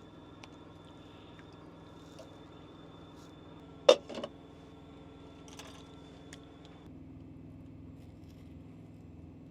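Steady mechanical hum inside the semi-truck cab, with a few light clicks and one sharp knock about four seconds in, followed by a smaller one. A higher whine within the hum cuts off about seven seconds in.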